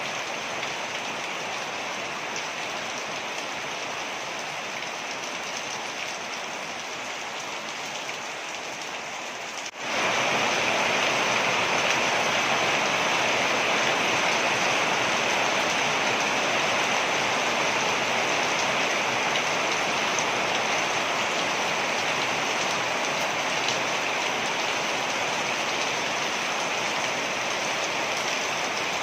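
Waterfall rushing in a steady wash of water noise. About ten seconds in it cuts off for a moment and comes back louder and hissier.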